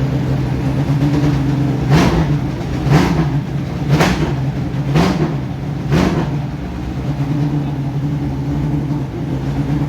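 Race car engine idling, blipped five times about a second apart, the revs rising and dropping straight back each time, then settling to a steady idle.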